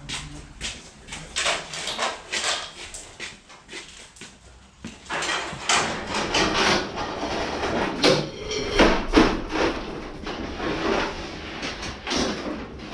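Repeated knocks, clunks and scraping as a car body shell is handled, lifted and set down over a chassis, busiest and loudest in the second half.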